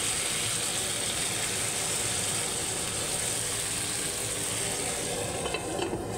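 Minced bopis meat with garlic and carrots frying in oil in a wok, a steady sizzle. A few light clicks come near the end.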